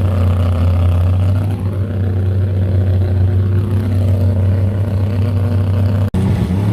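Car engine running steadily with a deep, even drone, with a brief dropout about six seconds in.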